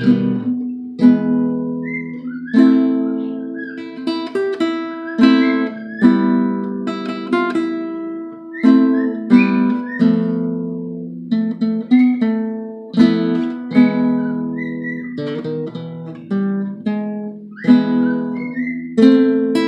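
Acoustic guitar, a Big Baby Taylor, strummed and picked in chords about once a second, each ringing on, as a beginner works between two chords. A pet bird whistles short gliding notes over the playing now and then.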